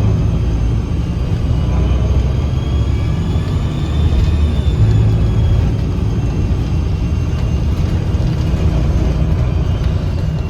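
Inside a 2009 Gillig BRT 40-foot transit bus under way: the engine and Voith transmission run with a steady low rumble, overlaid by thin, high, whistle-like tones that drift slightly in pitch. This is the sharp whistling from the drivetrain that comes up as the bus accelerates.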